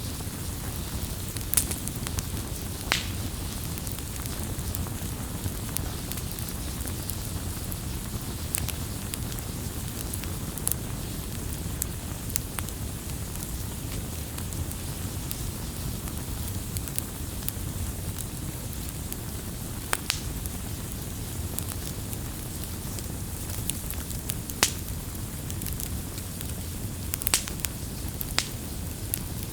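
Campfire burning, a steady low rumble of flames with sharp crackles and pops of burning wood at irregular intervals, a few of them louder.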